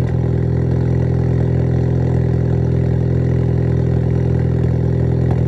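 2014 Ford Focus ST's 2.0-litre turbocharged EcoBoost four-cylinder idling steadily on a cold engine, through a fully straight-piped exhaust.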